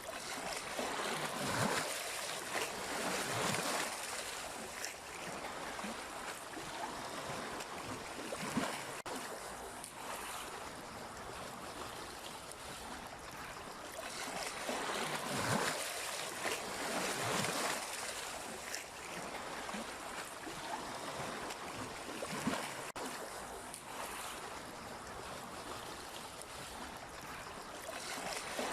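Sea waves washing in steadily, with a louder splash of a breaking wave every few seconds.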